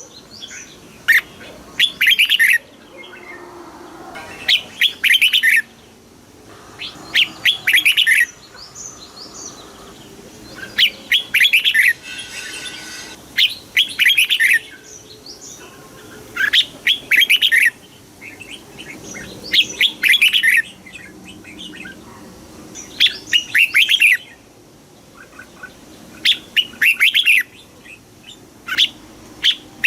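Red-whiskered bulbul singing: short, quick phrases of about a second each, repeated roughly every three seconds.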